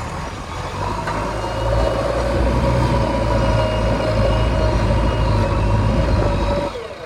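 Diesel engine of a JCB 3DX backhoe loader running steadily, a low rumble with a whine over it. The sound dips sharply just before the end.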